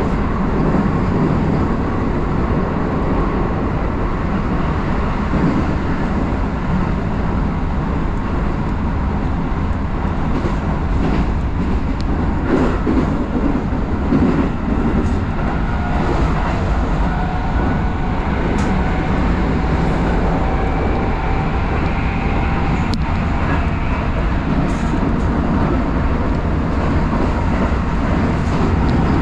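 An electric commuter train running along the line, heard from on board as a steady, loud rumble of wheels on rail. Faint whining tones rise above it for several seconds in the middle, and a couple of sharp ticks sound in the second half.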